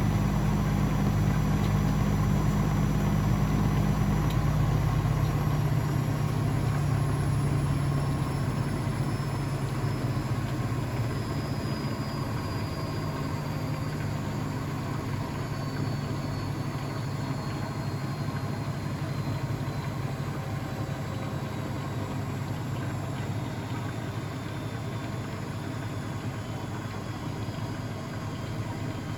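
Blomberg WAF 7442 SL washing machine slowing after a spin. A deep hum drops away about five seconds in, then a high motor whine falls slowly in pitch while the sound grows gradually quieter.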